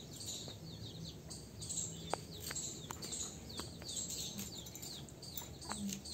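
Small birds chirping over and over in short, high, falling notes, with a few faint clicks in between.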